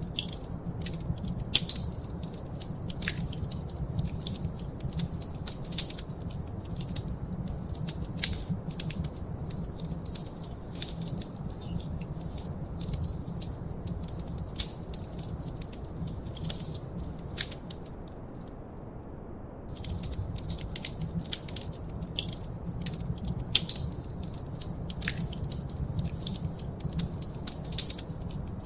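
Wood fire burning in a fireplace, crackling with irregular sharp pops over a steady low rumble. About two-thirds of the way through, the crackling stops for a second or so, then resumes.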